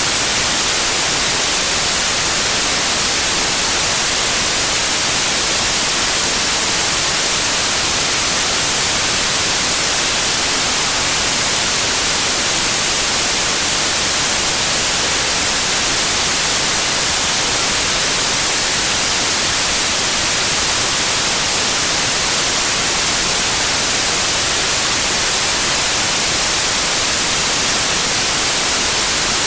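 Steady electronically generated noise: a constant, even hiss like radio static that never changes. Though the track is labelled pink noise, it leans toward the treble, more like white noise.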